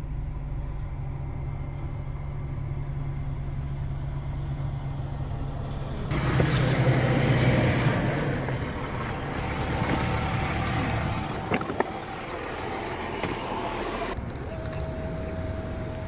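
2018 Audi A5's turbocharged 2.0-litre four-cylinder exhaust idling steadily, then revved about six seconds in, with a smaller rise a few seconds later. A short steady higher tone sounds near the end.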